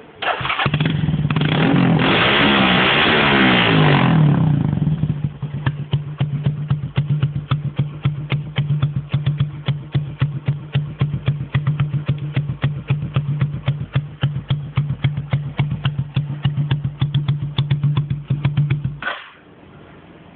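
A vehicle engine starting and revving, with the pitch sweeping up and down. It then settles into a lumpy idle with a steady rhythmic beat of sharp pulses, and shuts off near the end.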